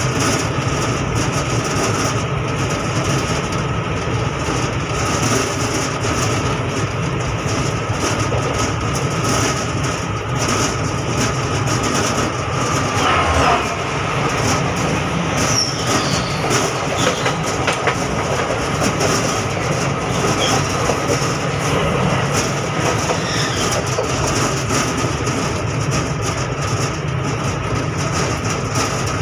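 Train running along the tracks, heard from the front cab: a steady rumble of wheels on rail with a constant hum, and a brief high squeal about fifteen seconds in.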